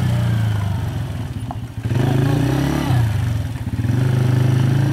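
Quad bike engine running close by, its note dropping away briefly twice and picking up again.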